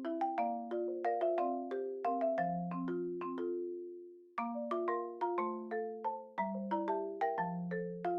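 Background music: a light melody of quickly struck, ringing notes on a mallet-percussion-like instrument, with a brief pause about four seconds in.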